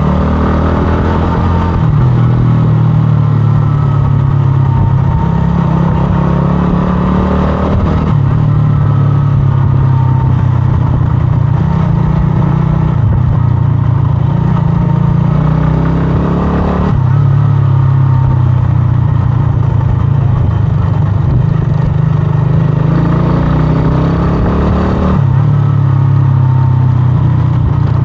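125cc scrambler motorcycle engine running on the move, revving up and easing off several times, its pitch stepping as the throttle changes.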